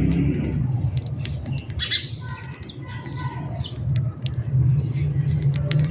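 Several birds chirping and giving squawking calls while feeding, with many short sharp ticks among them, over a steady low rumble.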